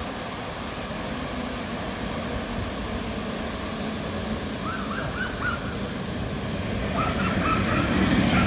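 EU07 electric locomotive hauling an Intercity passenger train approaching and passing, growing steadily louder as it nears. A steady high-pitched whine rises over the rumble for several seconds in the middle.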